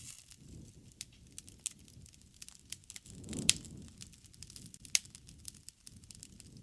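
Wood fire crackling: a steady run of sharp pops and snaps over the low rush of the flames. About halfway through the flames swell louder with a loud pop at their peak, and another loud pop follows about a second and a half later.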